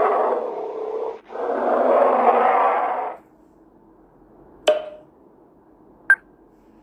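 Bear growling: two long, rough growls with a short break between them, ending about three seconds in. After that come two short clicks.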